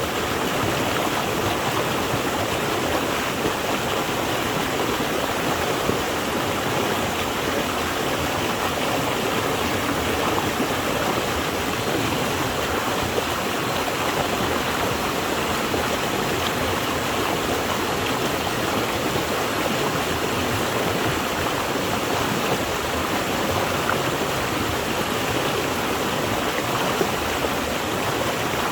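Flowing water rushing steadily, an even noise with no breaks or distinct splashes.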